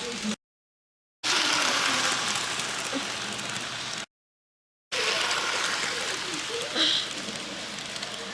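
HO scale model train running, a steady whirring rush heard in three short stretches cut apart by moments of dead silence. Each stretch starts louder and eases off. There is a brief high-pitched sound about seven seconds in.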